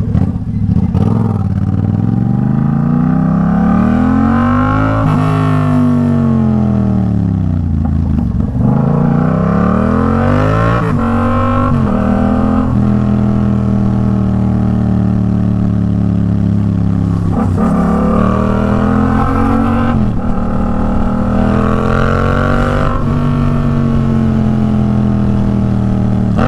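Yamaha MT-07's parallel-twin engine, running through an aftermarket Arashi exhaust on the move, its revs climbing and falling in smooth sweeps several times, with a few sudden drops in pitch.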